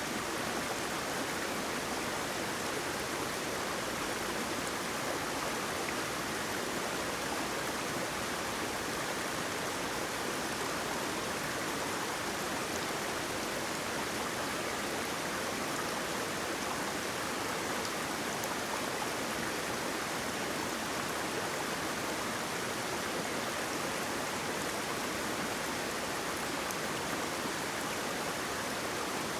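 Waterfall: water falling and rushing in a steady, even wash that neither rises nor falls.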